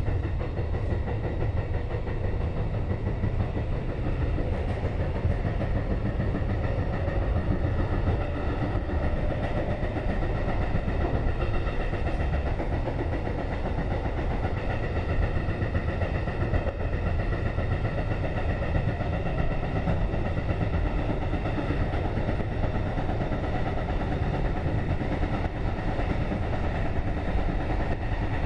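Keikyu 2000 series electric train, an all-motor-car set with field-chopper control, running at speed as heard from inside a car. There is a steady rumble of wheels on rail with several steady whining tones over it, and the knocking of flat spots on the wheels, which the recordist calls a tremendous ringing flat.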